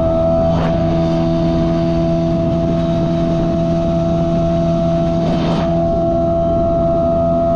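Boat's outboard motor running at a steady speed while the boat is under way, with a constant drone. Two brief whooshes, about half a second in and near the end, likely the hull slapping water.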